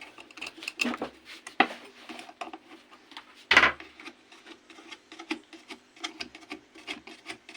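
Hands working inside an opened tower home theatre cabinet to free its amplifier board: rubbing and scraping with many small clicks and taps, and one louder knock about three and a half seconds in.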